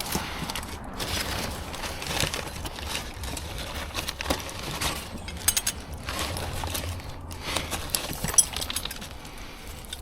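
Scrap metal being handled: irregular clanking and rattling of loose metal pieces, with a few sharp louder clanks about five and a half and eight and a half seconds in.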